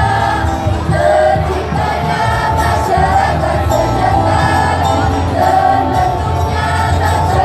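School choir singing a song over loud music accompaniment with a steady bass line.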